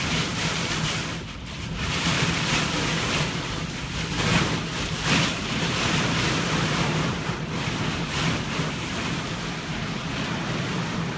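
Loud rushing, gusting storm noise, with wind buffeting the microphone and a steady low hum underneath.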